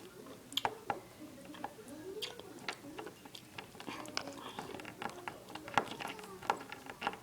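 Irregular sharp clicks and taps of small plastic Littlest Pet Shop toys being handled, about a dozen scattered through, likely a pet figure pecked against toy food to act out eating, with a faint voice murmuring underneath.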